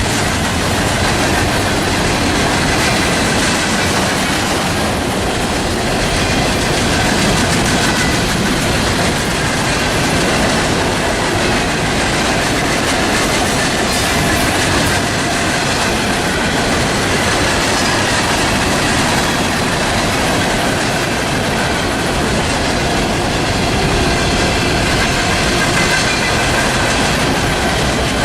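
Norfolk Southern freight train cars rolling past steadily, wheels clicking over the rail joints, with a faint high-pitched wheel squeal.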